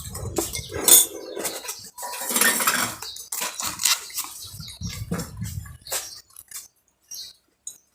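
Spoons and dishes clinking and scraping, with one loud clack about a second in and a longer scrape around two to three seconds in.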